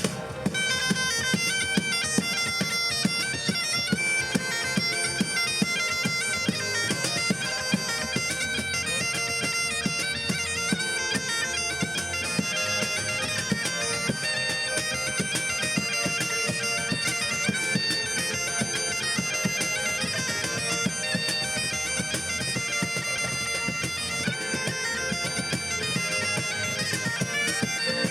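Great Highland bagpipes playing a tune over their steady drones, with drums beating beneath.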